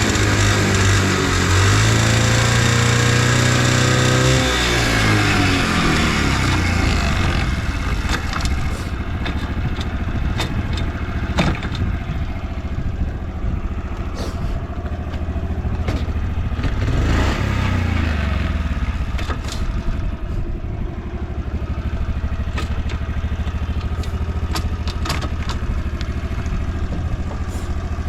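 Honda Motra's 49cc four-stroke single-cylinder engine held at raised revs, then dropping back to a steady idle about five seconds in, with one more rev rise and fall around the middle and a few light clicks. It runs quietly, with no abnormal noise.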